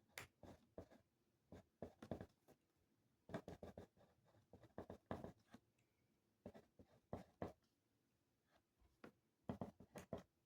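Handwriting on paper: quick scratchy pen strokes in short bursts, with brief pauses between.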